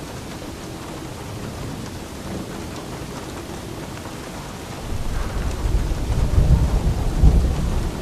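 Steady rain falling, with a roll of thunder rumbling in about five seconds in, peaking near the end and easing off.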